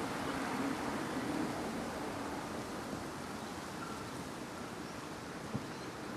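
Steady outdoor background noise with no distinct source, a faint short tone about four seconds in and a single soft tap near the end.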